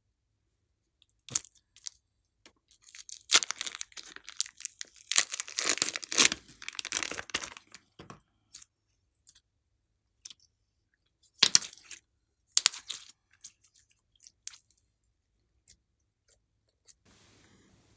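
Slime being squeezed and stretched by hand, giving sticky crackles and sharp pops: a dense run of crackling in the first half, then a few separate pops.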